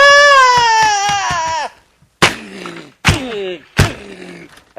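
A long, high-pitched scream that slides down in pitch, followed by three thuds, each with a short falling cry.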